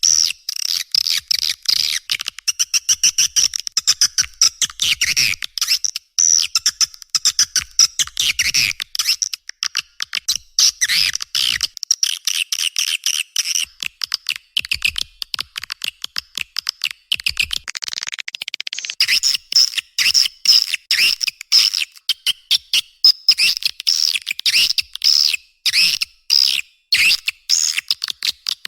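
Swiftlet lure-call recording: dense, rapid, high-pitched twittering chirps of swiftlets, many calls a second, with a brief smoother stretch a little past halfway. It is the calling sound played at swiftlet houses to draw birds in to roost.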